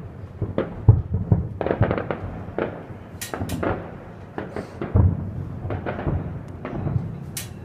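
Distant fireworks display: an irregular string of booms and pops, with the loudest booms about a second in and about five seconds in, and sharp crackles around three seconds in and near the end.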